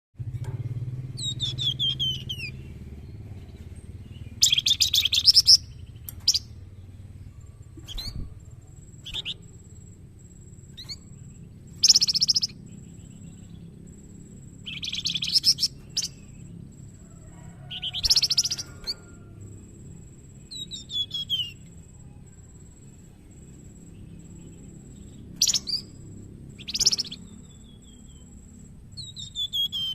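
Young flamboyan songbird singing in separate phrases every few seconds: rapid buzzy trills of about a second alternate with quick chirps that slide downward in pitch.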